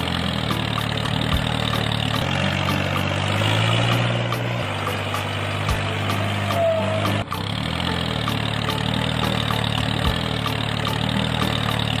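Tractor engine running steadily at idle-like speed, with a low, even drone and background music beneath it. There is a brief break about seven seconds in.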